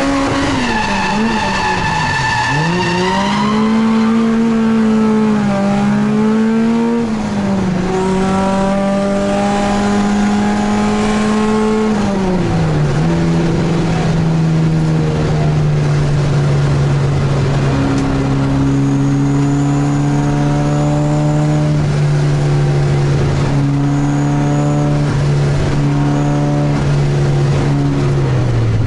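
Corolla TE71's 4A-GE twin-cam four-cylinder engine heard from inside the cabin, revving hard and dropping sharply several times with throttle lifts and shifts, then held at high revs for long stretches while the car drifts. Tyres squeal through the first few seconds.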